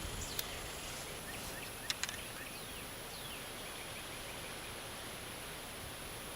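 Quiet outdoor ambience: a steady high insect drone with a few faint bird chirps, and a couple of small clicks about half a second and two seconds in.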